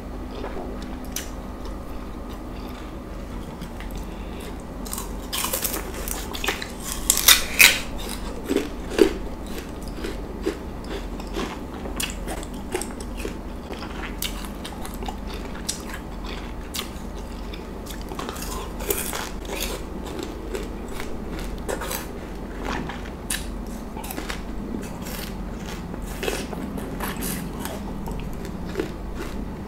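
Close-miked eating sounds: a person biting into and chewing crisp pieces of fruit, with many sharp crunches. The loudest bites come close together about a quarter of the way in.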